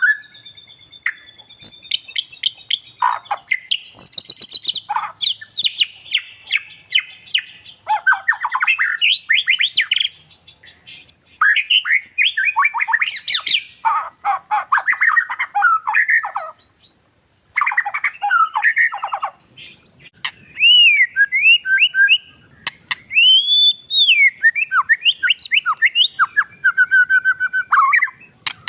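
Oriental magpie-robin (kacer) singing a long, varied song: rapid chattering phrases give way to clear, sliding whistled notes about twenty seconds in, with only short pauses between phrases. It is a lure song meant to set other magpie-robins singing.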